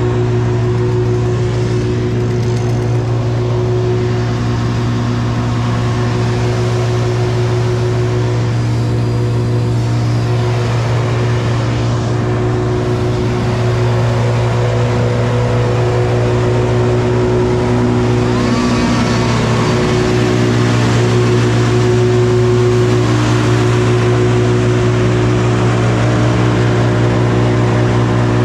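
An engine running steadily at a constant speed, with a slight shift in its pitch about eighteen seconds in.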